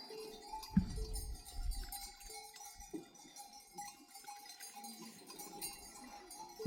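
Bells worn by a herd of goats and sheep, clinking and ringing irregularly.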